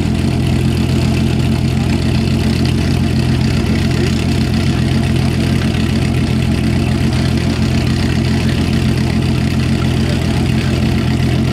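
Volkswagen Golf Mk3's engine idling steadily, a deep even exhaust note that holds at one pitch without any revving.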